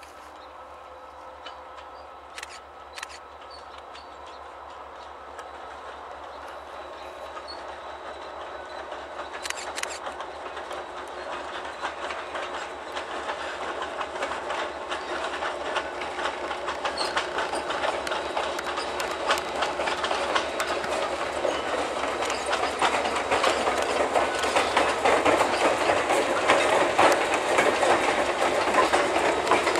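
EMD GP30 diesel locomotive hauling two empty hopper cars approaches and passes close by, growing steadily louder. From about halfway through, the wheels clack rapidly over the rail joints.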